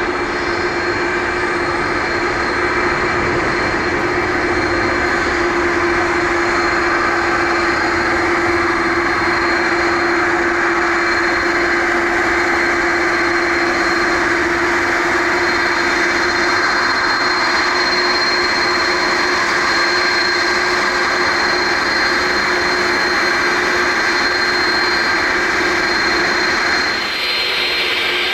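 Boeing 777 airliner's jet engines running steadily, a loud whine with a steady hum beneath. The sound changes abruptly near the end.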